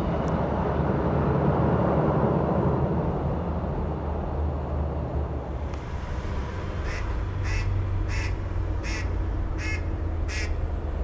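A bird calling six times in a row, short harsh calls about two-thirds of a second apart, over a steady rumbling background noise that is loudest in the first few seconds.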